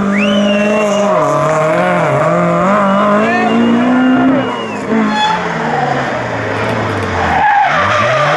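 Rally car engine running hard on a stage, its pitch climbing and dropping with throttle and gear changes. About five seconds in the note falls away, and near the end a car's engine comes in again, rising in pitch.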